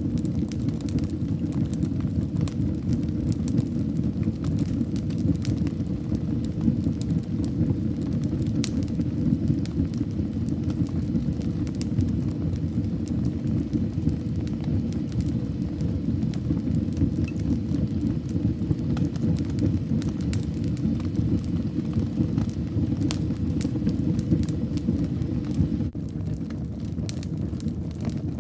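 Wood fire burning in a fireplace: a steady low rumble of flames with frequent crackles and pops. It gets slightly quieter near the end.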